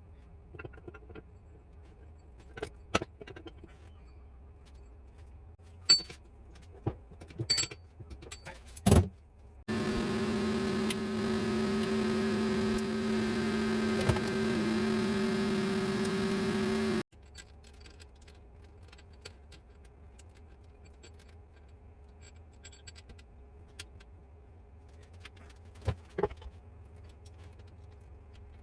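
Metal parts and tools clinking and clicking on a workbench, with an electric workshop machine running steadily for about seven seconds in the middle, a steady hum with a hiss over it that stops suddenly.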